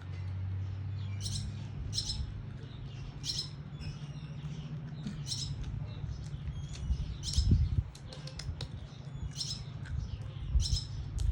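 A bird chirping: short, high chirps repeated every second or two, over a low rumble, with a dull thump about two thirds of the way through.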